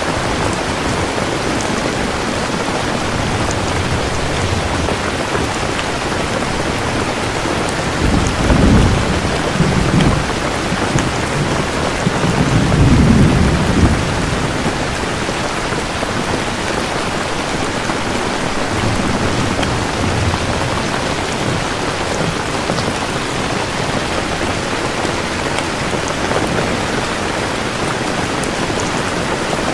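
Steady heavy rain falling, with low rolls of thunder rumbling twice near the middle, the second the louder.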